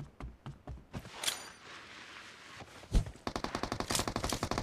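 Video-game gunfire: a few scattered single shots, then, about three seconds in, one heavy shot followed by a rapid automatic burst of roughly a dozen shots a second.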